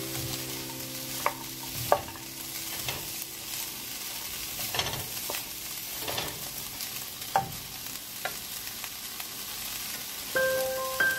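Mixed diced vegetables frying in a pan with a steady sizzle while they are stirred with a wooden spatula, which scrapes and knocks against the pan now and then.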